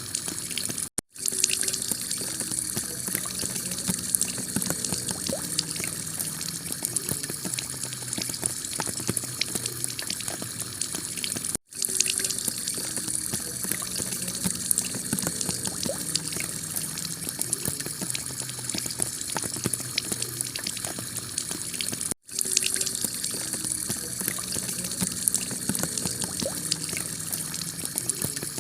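Heavy rain falling on a clay-tile roof, a steady dense patter with many separate drop hits. The sound cuts out for an instant three times, about every ten and a half seconds, where the recording loops.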